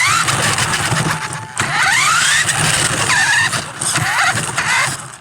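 Small electric motors of a toy RC plane and RC car running hard, with short rising whines several times as they are throttled up over a loud rushing noise; the sound cuts off suddenly at the end.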